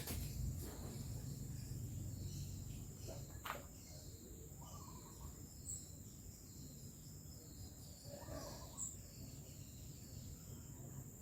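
Faint, steady, high-pitched insect trill in the background, with a low hum early on and a few faint knocks.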